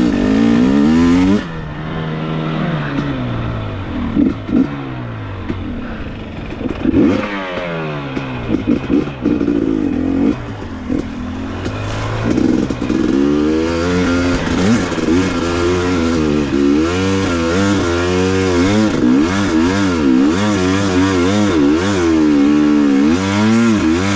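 KTM 250 XC two-stroke dirt bike engine revving hard under load, its pitch climbing and dropping again and again as the throttle is worked on a steep climb; the rev changes come in quick succession in the second half.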